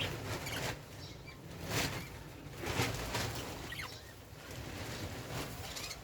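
Budgerigars fluttering their wings, a few short flurries of flapping, with a single faint chirp in the middle.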